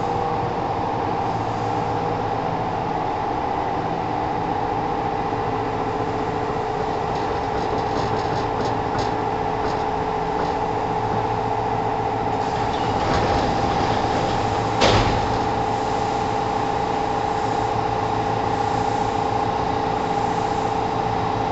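Inside a Kintetsu 1000-series electric train pulling into a station and stopping: a steady hum from the car's equipment, a short hiss about 13 seconds in, then a sharp clack about 15 seconds in as the doors open.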